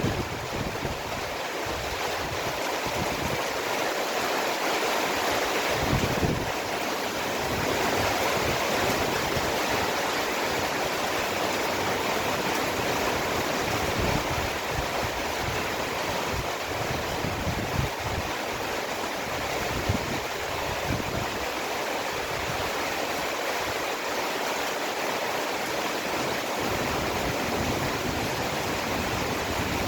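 Heavy downpour of rain falling steadily as a dense hiss, with irregular low rumbling surges now and then.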